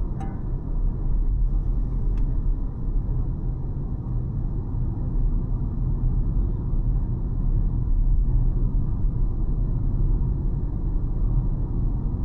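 Car driving along: a steady low rumble of tyre, road and engine noise.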